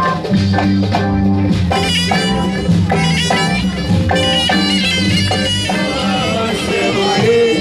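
Instrumental passage of Tunisian folk music: a bagpipe-like reed instrument plays the melody over a sustained drone and a steady drumbeat.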